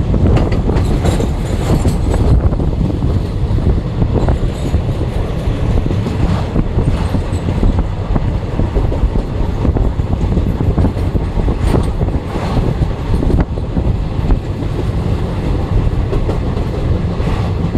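Indian Railways express train running over the Godavari river bridge, heard from inside a coach. A loud, steady rumble of wheels on rails, with the clickety-clack of the track.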